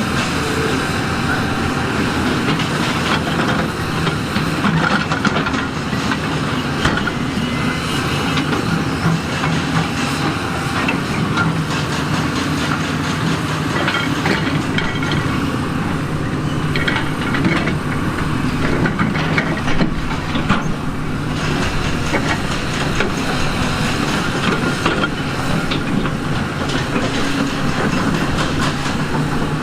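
Heavy earthmoving machinery at work: a large diesel engine runs steadily under load, with dense, continuous clanking and rattling of metal and rock.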